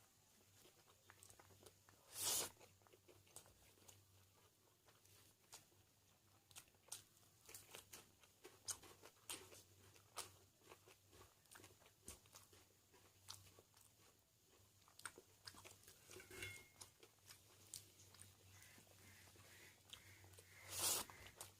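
Close-up sounds of a person eating: soft wet chewing and mouth clicks, with crisp crunching bites. The loudest crunches come about two seconds in and again near the end.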